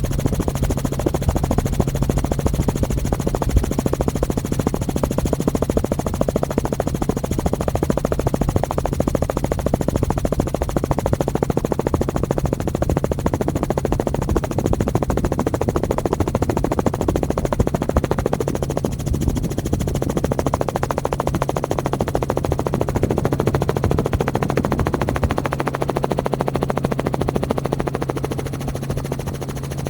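Helicopter running steadily: a rapid, even pulsing over a steady low hum, easing slightly near the end.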